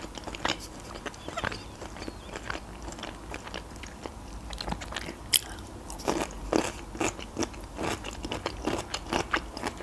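A person biting and chewing crunchy fresh cucumber slices: an irregular run of wet crunches and mouth clicks, with one sharper click about five seconds in.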